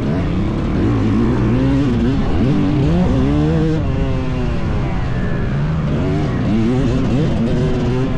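Two-stroke dirt bike engine under riding, revving up and dropping back several times as the throttle is worked around the track, with a long climb in pitch about three seconds in.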